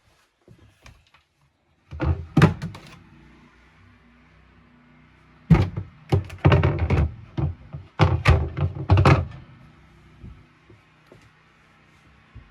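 Hollow thunks and knocks from wooden cabin fittings being handled, coming in three bunches about two, six and eight seconds in, over a faint low steady hum.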